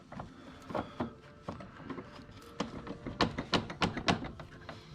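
Sharp metallic clicks and knocks of hand tools on the van's radiator fan bolt, with a quick run of louder clicks about three seconds in. This is the T50 Torx bolt being worked loose while a 2-inch wrench holds the fan from spinning.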